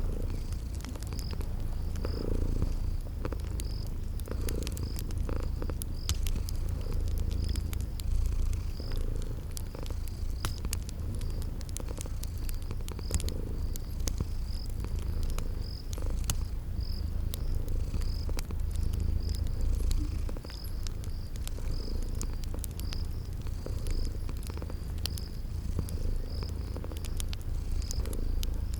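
Cat purring in slow, steady swells, over a wood fire crackling with scattered small pops and crickets chirping in an even rhythm.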